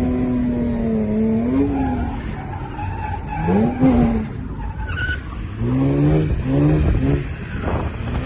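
Car engine revving hard while drifting, its pitch rising and falling, with a quick run of short rev bursts in the second half, over the noise of tyres skidding.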